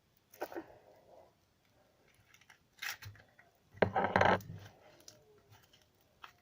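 Hands squeezing and poking a firm slime, giving short sticky squelching and crackling noises; the loudest and longest squish comes about four seconds in.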